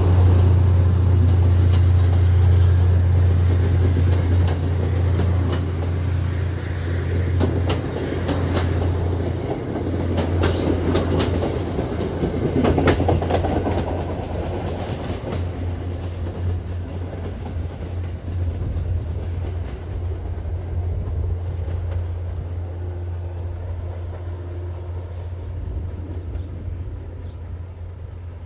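Train passing, its wheels clicking over rail joints, then drawing away and fading.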